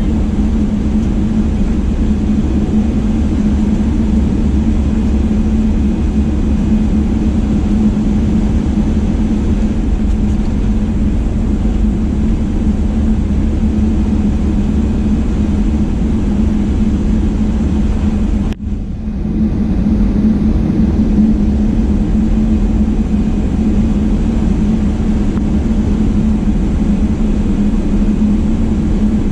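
Airliner's jet engines heard from inside the passenger cabin: a loud, steady rush with a low hum, briefly cutting out about two-thirds of the way through.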